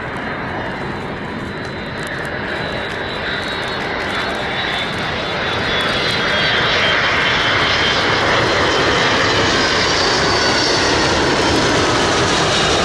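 Jet aircraft engines growing steadily louder as the plane approaches and passes close, a rushing roar with a high whine that slowly falls in pitch.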